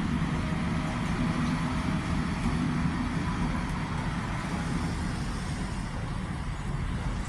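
Steady city traffic noise: a constant low rumble of road vehicles with no single vehicle standing out.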